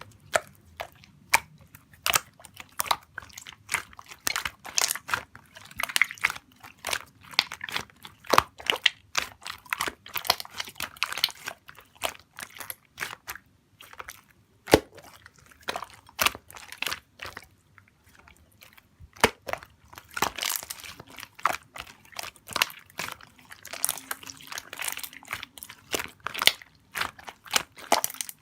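Slime being squeezed, pressed and stretched by hand, making irregular crackling, popping clicks that come in bunches with short pauses between them.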